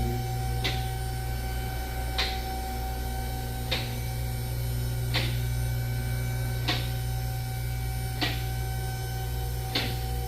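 Vehicle lift's electric pump motor humming steadily as it raises a car, with a sharp click from the lift's safety locks about every second and a half.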